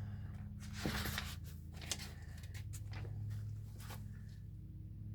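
Paper pages of a repair manual rustling and being turned, with a few light crinkles and clicks, over a steady low hum.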